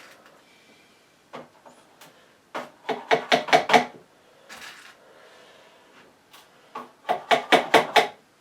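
Two quick runs of light hammer taps, six or seven strikes each: pins being tapped into the back of a picture frame to hold a painting in its mount.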